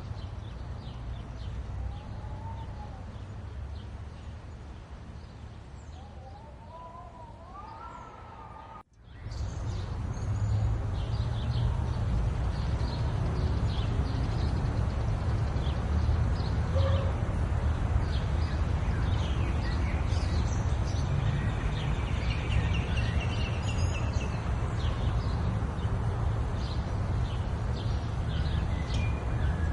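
Small songbirds chirping and twittering over a steady low rumble. About nine seconds in the sound cuts out for a moment, then comes back louder and busier with chirps.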